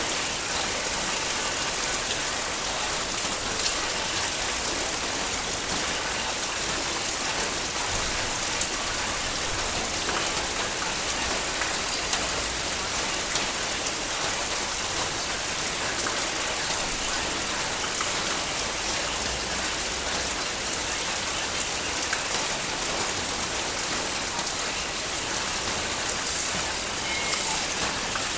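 Heavy rain falling steadily, an even hiss with many small drop ticks scattered through it.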